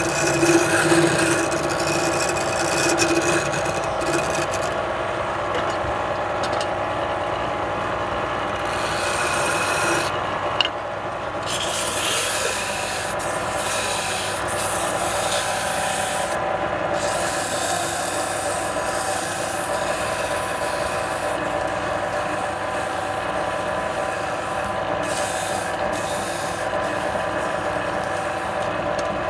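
Wood lathe running steadily with a constant motor hum, while a tool rubs and rasps against the spinning wood, the scraping coming and going. A single sharp click about ten seconds in.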